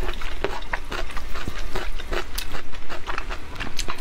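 Close-miked chewing of soft, sticky braised meat, with irregular wet clicks and smacks several times a second over a low rumble.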